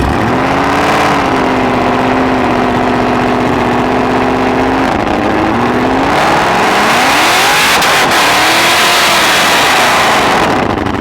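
Dodge V8 muscle car engine revving hard and held at high revs for about five seconds, then revving up and down. From about six seconds in a rising rush of spinning-tyre noise joins it, typical of a street-takeover burnout.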